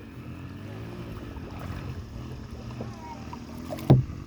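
A single sharp knock near the end, like something striking a kayak, over a low murmur of distant voices on the water.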